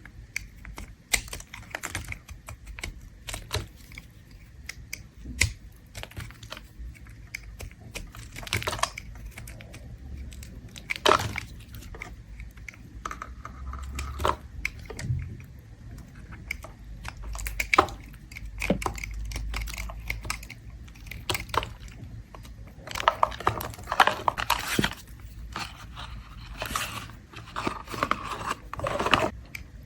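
Blade scraping shavings off a bar of peppermint soap, a string of irregular crisp scrapes and crackles with denser runs of scraping near the end.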